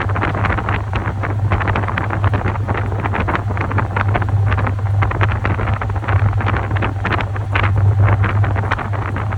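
Top-loading washing machine running, with a steady low motor hum under continuous, irregular swishing of water and laundry in the drum.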